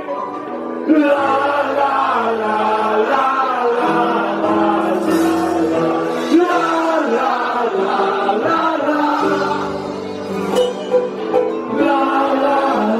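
Live band music with singing over held chords.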